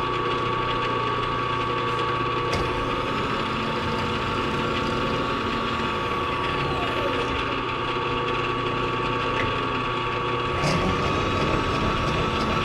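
A machine tool's motor running steadily with a constant whine. A faint falling tone about halfway through, and a few sharp clicks.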